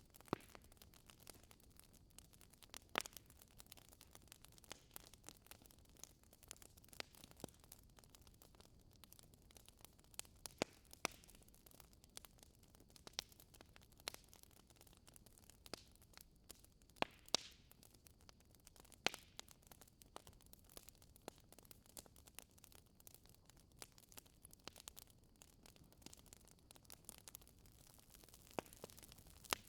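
Wood fire in a fireplace crackling: irregular sharp pops and snaps over a faint steady hiss, with a few louder snaps now and then.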